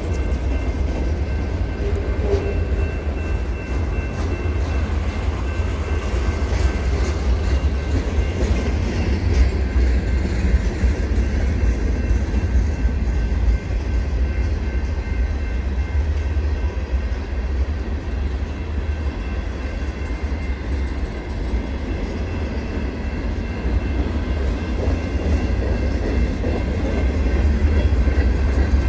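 Freight train cars (autoracks, covered hoppers and boxcars) rolling past at speed, a steady rumble of steel wheels on rail that grows a little louder near the end.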